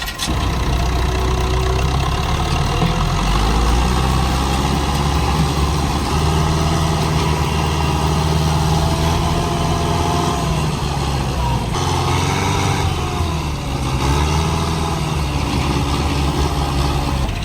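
Tractor engine running and revving, its pitch rising and falling; the sound changes abruptly about twelve seconds in.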